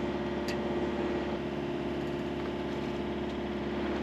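A sailboat's engine running steadily, with a single short click about half a second in.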